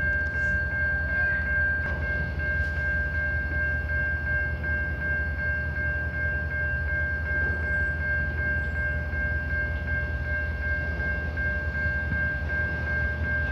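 Freight train of empty centerbeam flatcars rolling through a grade crossing: a steady low rumble of wheels on rails, with a continuous high ringing tone from the crossing's warning bell over it.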